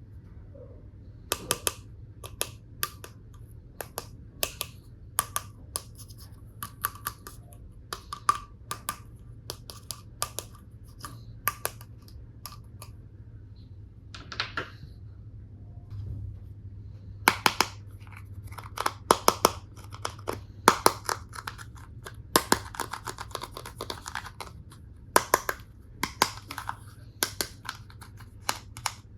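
Hard plastic toy tool pieces clicking and tapping against each other as they are handled. The clicks are scattered at first and come in quicker clusters in the second half, over a faint steady low hum.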